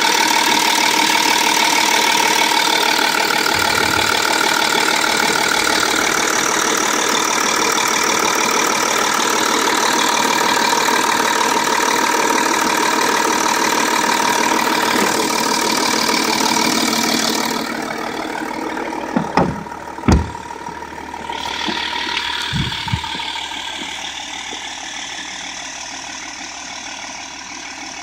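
Audi 3.0 TDI V6 diesel engine idling steadily with diesel clatter. About two-thirds of the way through the sound drops and gets duller, and a few sharp thumps follow, the loudest one a hard bang.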